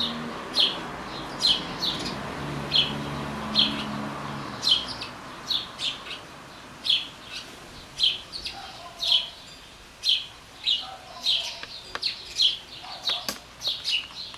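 Chicks begging to be fed, with short high chirps repeated about once or twice a second that come faster in the second half.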